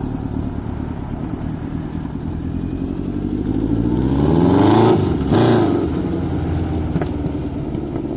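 Honda CB900F's 16-valve inline four-cylinder engine idling, then blipped twice in quick succession about halfway through, with the pitch rising and falling back each time before it settles to idle again.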